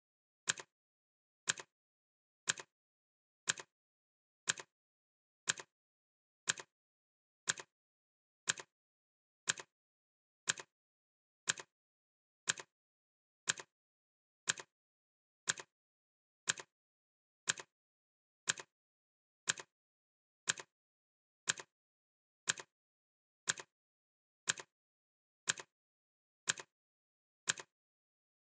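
Clock ticking sound effect: crisp, evenly spaced ticks, one every second, with silence between.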